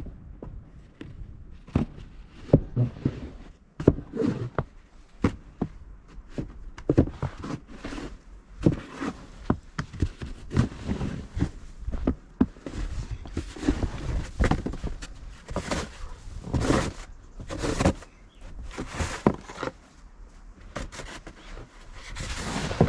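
Snow being cleared by hand: irregular crunching and scraping strokes of a shovel working through snow, mixed with footsteps in the snow.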